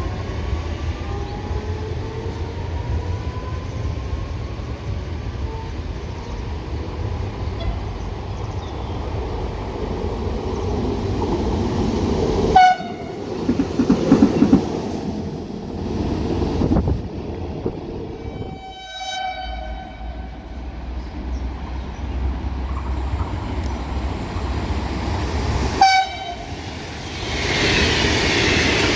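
Electric trains, among them E464 locomotives, running through a station with a steady rumble of wheels and motors. Short horn blasts sound about 13 s in, about 19 s in and about 26 s in, and the sound breaks off abruptly between passes. A louder rumble of a passing train comes about 14 s in.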